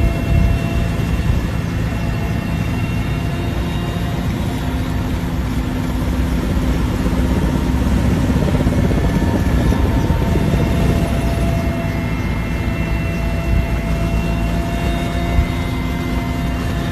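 Firefighting helicopter running steadily: a dense low rotor rumble with steady whine tones above it.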